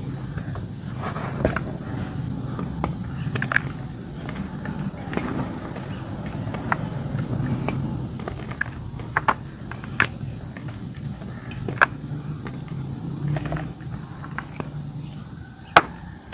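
Dry white clay (white dirt) being crunched and crumbled, with irregular sharp cracks and snaps scattered throughout over a steady low hum.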